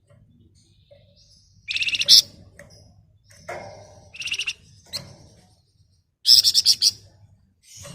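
Flamboyan songbird giving three bursts of rapid, close-packed shrill trilling chatter (the 'ngebren rapat nyerecet' call), with a few softer notes between.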